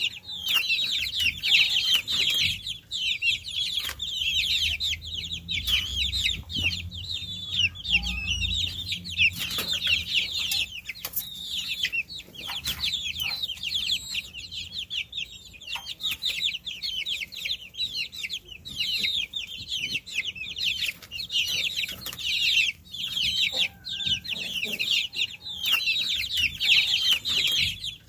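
A brood of baby chicks chirping continuously, many high-pitched peeps overlapping, with a faint low rumble underneath about a third of the way in.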